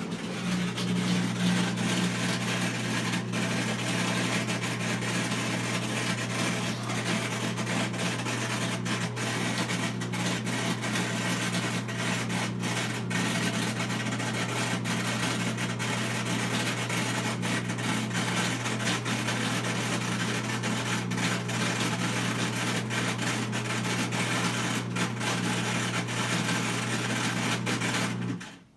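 Whirlpool front-load washer's drain pump running: a steady low hum under a loud rough noise, starting suddenly and cutting off after about 28 seconds. This is the abnormal noise the washer makes while draining.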